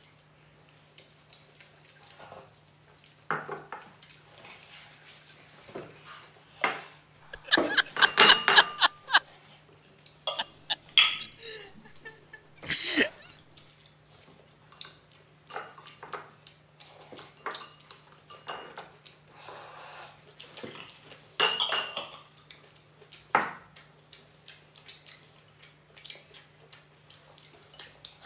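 Tableware clinking: utensils knocking against bowls and plates in scattered clicks, with a cluster of ringing clinks about eight seconds in and more near the middle. A steady low hum runs underneath.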